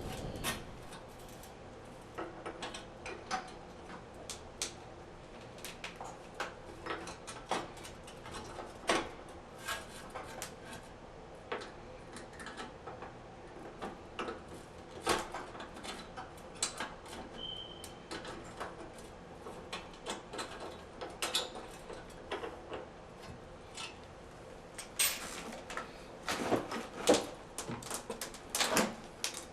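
Irregular light clicks and knocks from a tub and shower repair plate, with its repair screw and bracket, being handled and fitted, with a run of louder knocks near the end.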